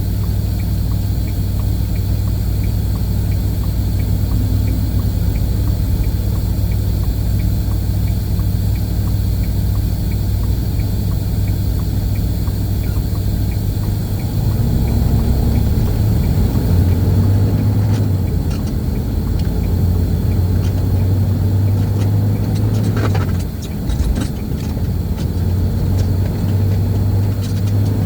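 A semi truck's diesel engine runs steadily with a deep, even hum. The engine note changes about halfway through and dips briefly a few seconds before the end.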